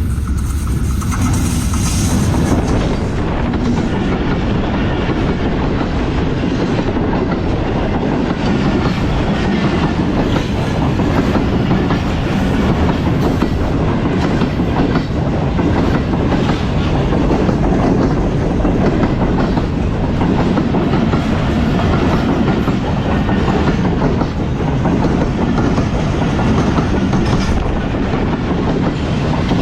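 Pakistan Railways train running on the rails: a steady, loud rumble of wheels on track with a continuous clatter.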